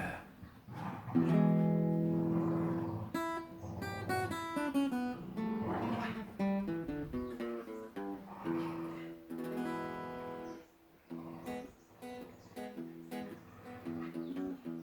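Acoustic guitar music: plucked notes and strummed chords with quick runs of notes a few seconds in.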